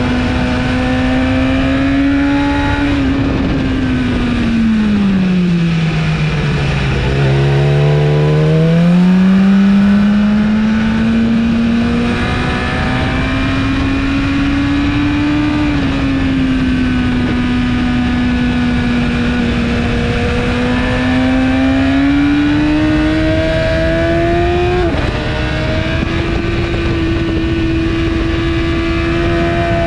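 2017 BMW S1000RR inline-four with an Akrapovic exhaust at track speed, heard onboard under heavy wind noise. Engine pitch falls steeply over a few seconds and climbs back, holds fairly steady, then rises and drops suddenly at a gear change a few seconds before the end.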